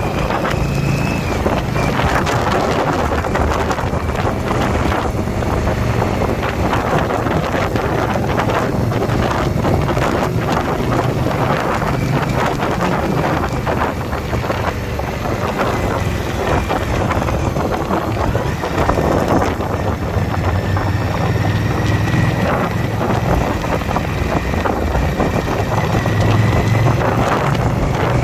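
Motorcycle engine running at steady road speed, with heavy wind rushing and buffeting on the microphone.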